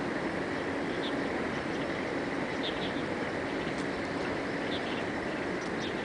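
Small birds chirping in short, high calls every second or so over a steady rushing background noise.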